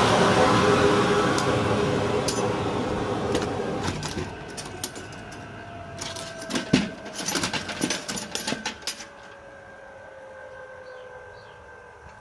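Pangasius head-cutting machine winding down: its loud mechanical whir fades steadily while a hum sinks slowly in pitch. A cluster of clicks and knocks comes in the middle.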